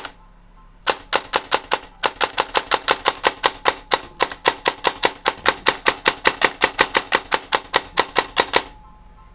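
Krytac Kriss Vector airsoft electric gun with a DSG gearbox test-firing: one sharp crack, then a short string of shots and a longer rapid string of about seven shots a second, each a sharp snap of the piston and gearbox cycling.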